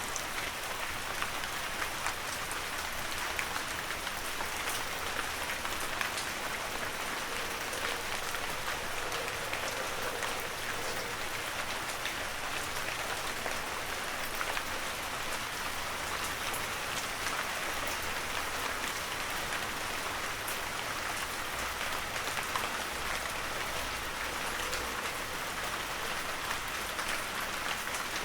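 Heavy rain falling steadily, a dense even hiss with many small drop ticks and no let-up.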